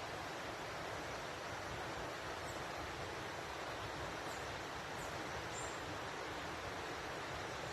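Steady rushing of a waterfall pouring into a pool, with a few faint, short, high bird chirps over it.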